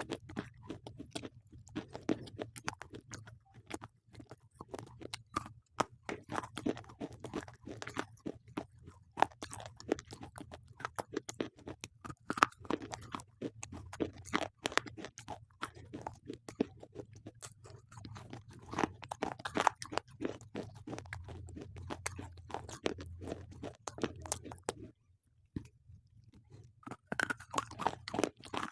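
Slate pencils being bitten and chewed close to the microphone: a dense run of sharp, dry crunches and crackles, pausing briefly near the end before the chewing resumes.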